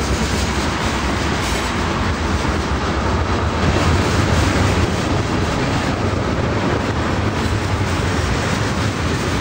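Freight train of tank cars rolling past close by: a steady, loud rumble and clatter of wheels on the rails, a little louder about four seconds in.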